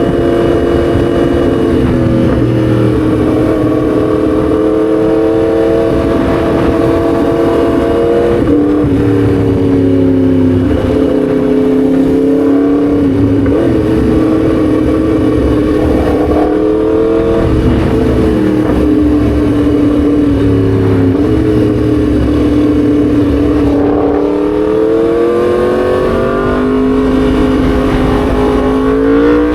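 Yamaha MT-10 SP's crossplane inline-four engine running under way at a fairly steady pitch with small ups and downs. The pitch climbs over the last few seconds as it accelerates.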